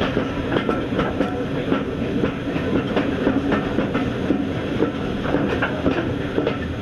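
Passenger carriages of a train running along the line: a steady rumble of wheels on track with frequent irregular clicks as the wheels pass over rail joints.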